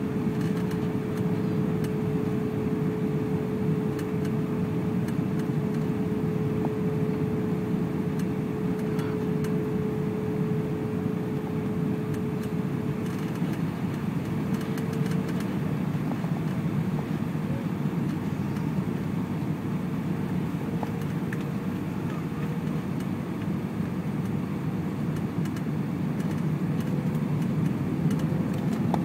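Airbus A320 cabin noise in flight: the steady rush of engines and airflow, with a steady engine whine that shifts slightly higher about halfway through.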